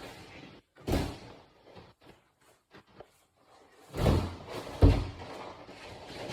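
Thuds of a body and a grappling dummy hitting the mat during grappling drills: one about a second in, then two heavier ones around four and five seconds in, with scuffing and rustling around them.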